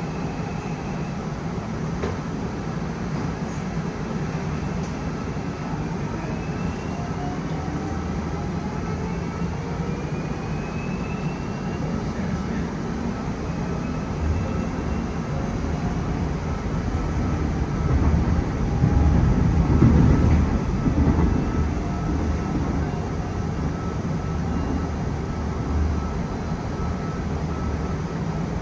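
Busan Metro Line 1 subway train running, heard from inside the carriage: a steady rumble of wheels on rail. In the first half the motor whine rises in pitch as the train gathers speed. The running noise swells for a few seconds about two-thirds of the way through.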